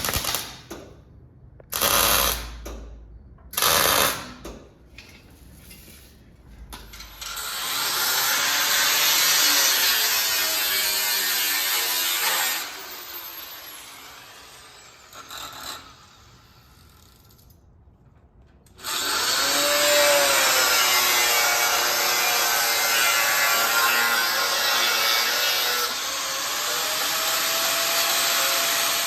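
A power tool cutting through the ATV's steel frame: three short bursts near the start, then two long runs of steady cutting, the second lasting about ten seconds.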